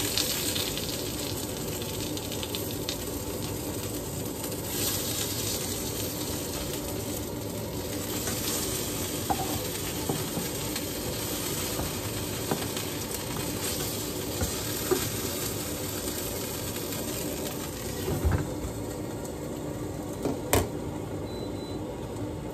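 Fish fillets sizzling as they fry in oil in a frying pan, with the occasional scrape and tap of a spatula. Near the end, a sharp clink as the glass lid goes down on the pan, and the sizzle sounds duller once the pan is covered.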